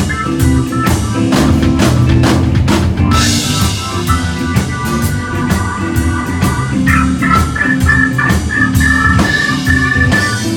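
A live blues band playing an instrumental stretch: drum kit keeping a steady beat, with bass and guitar, and a cymbal crash about three seconds in.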